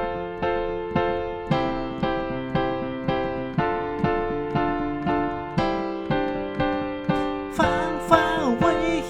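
Piano playing the intro of a pop song, striking chords about twice a second. A singing voice comes in near the end.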